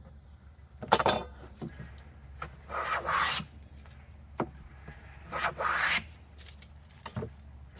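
Hand plane taking two long strokes along a board edge, each a shaving-cutting rasp of under a second, with a sharp knock of the plane on the wood about a second in and a few light clicks between strokes.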